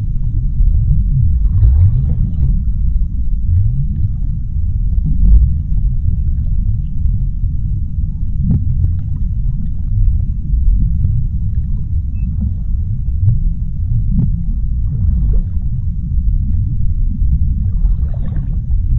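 Underwater sea ambience: a deep, steady rumble with a few faint, brief washes of higher sound.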